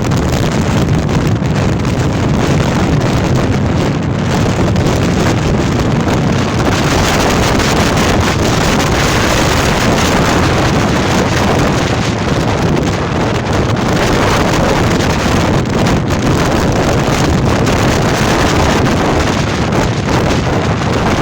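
Storm-force wind blowing hard and without a break, buffeting the microphone with a loud, continuous rush.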